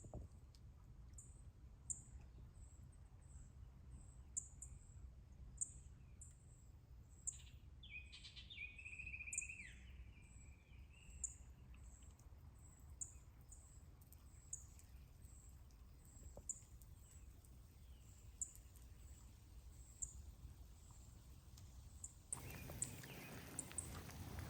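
Faint, high-pitched bird chirps repeating about once a second, with a longer, louder bird call about eight seconds in. Near the end a steady hiss comes up.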